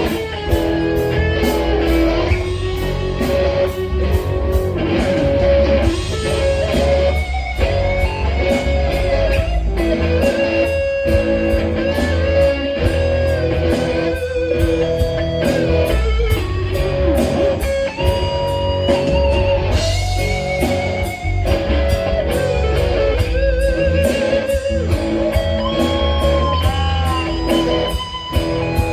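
Rock music led by an electric guitar playing sustained, bent notes with vibrato over drums and bass.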